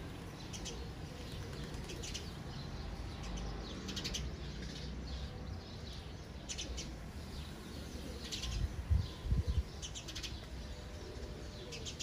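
Small birds chirping in short, separate high chirps every second or two over a steady background hiss. A few low thumps come about nine seconds in, louder than the chirps.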